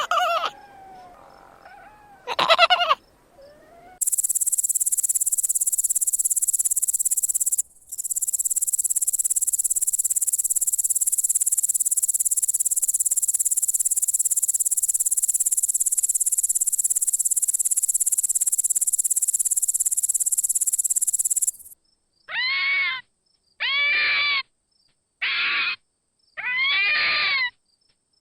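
A run of animal calls. Two short pitched calls come near the start. Then a steady, high-pitched insect-like buzz runs for about seventeen seconds, with a brief break early on, and five repeated pitched calls of about half a second each follow near the end.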